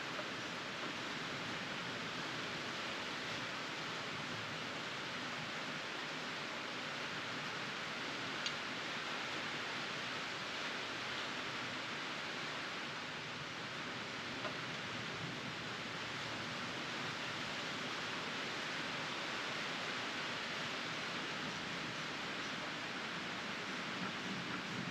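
Steady rain falling, an even continuous hiss, with a few faint ticks.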